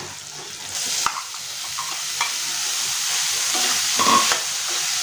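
Crumbled paneer sizzling as it goes into hot tomato-onion masala in a stainless steel kadai, stirred with a metal spatula that scrapes and taps against the pan. The sizzle comes in about a second in and grows steadily louder.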